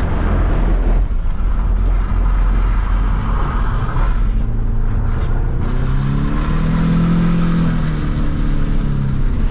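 Nissan 350Z's VQ V6 engine running with a heavy low rumble; about six seconds in the revs climb, hold briefly and drop back.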